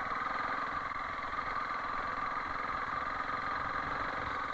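Honda CRF300L Rally's single-cylinder engine running steadily, its pitch holding even without revving up or down.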